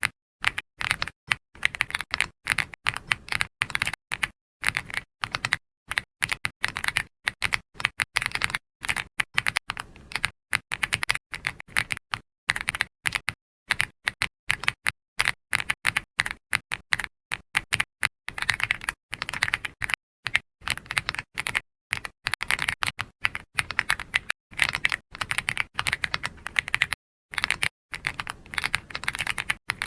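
Typing on a computer keyboard: quick runs of soft keystroke clicks broken by many short pauses.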